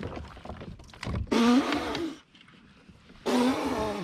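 A man yelling twice in excitement, two loud shouts of about a second each, celebrating a big bass just caught from the kayak.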